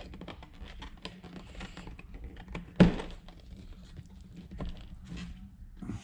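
Small irregular clicks and taps of parts being handled and fitted by hand during engine assembly, with one sharper knock about three seconds in, over a faint steady hum.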